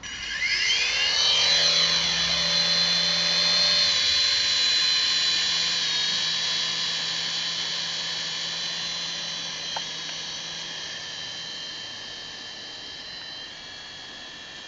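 Small RC toy helicopter's electric motors and rotors spinning up with a rising whine over the first second or so, then running at a steady high-pitched whine that slowly grows quieter.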